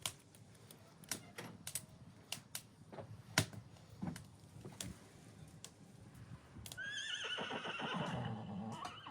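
Scattered light clicks and taps, then, about seven seconds in, a long quavering animal call that starts high and falls in pitch over about two seconds.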